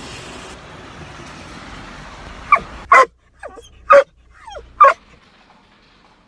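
A dog barking and yipping about six times, the three loudest barks roughly a second apart, over a steady hiss that cuts off about three seconds in.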